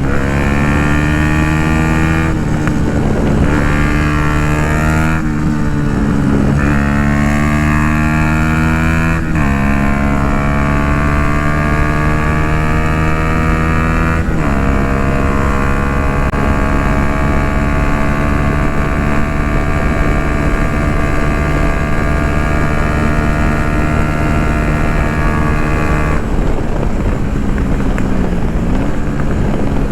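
2016 Yamaha MT-125's single-cylinder 125 cc four-stroke engine through an Akrapovic full exhaust, under way. The engine note drops sharply several times in the first fifteen seconds and climbs again after each drop, as with upshifts. It then holds a long, steady, slowly rising note, with a brief dip and recovery near the end.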